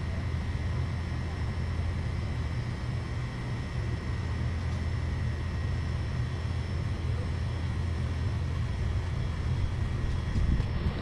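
A steady low mechanical drone with a faint steady high whine over it.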